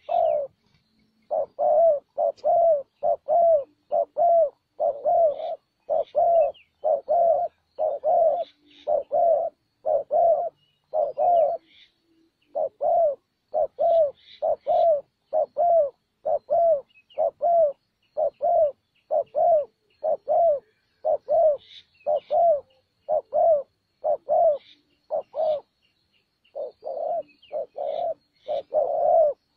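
Spotted dove cooing: low coos repeated steadily, about two a second, pausing briefly twice. Faint chirps of small birds sound above it.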